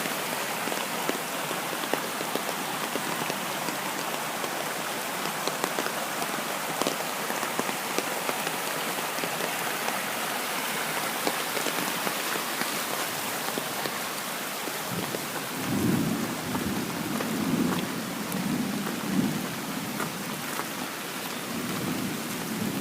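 Heavy rain pouring down steadily onto the ground and surfaces, with scattered small ticks of drops striking. From about fifteen seconds in, thunder rumbles low in several swells.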